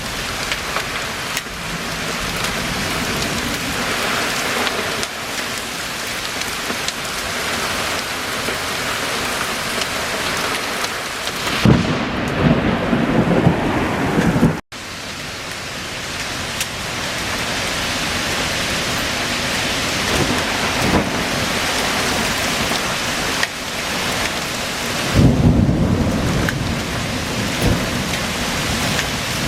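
Heavy rain pouring steadily in a thunderstorm, with two loud rolls of thunder, one about twelve seconds in and another near the end. The sound cuts out for an instant right after the first roll.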